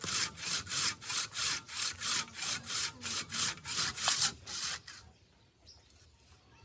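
Hand saw cutting wood in steady back-and-forth strokes, about three a second, stopping about five seconds in.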